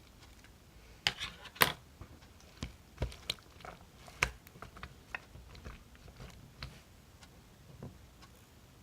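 Close-up chewing and biting: irregular crisp clicks and crunches, loudest in a cluster about a second and a half in.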